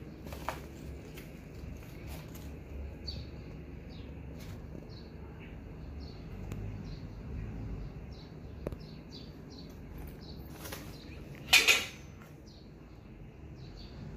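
Small birds chirping on and off over a low steady background hum. Near the end, two loud sharp knocks come close together.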